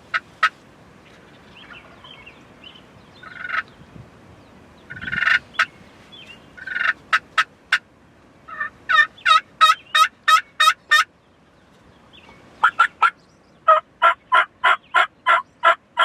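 Turkey clucks and yelps: a few sharp single clucks, then two runs of about eight evenly spaced, loud yelps at about four a second, the first near the middle and the second near the end.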